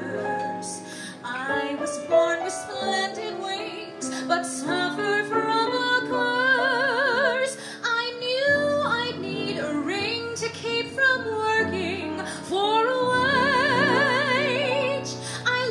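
A woman singing a musical-theatre song, holding long notes with a wide vibrato, over sustained instrumental accompaniment.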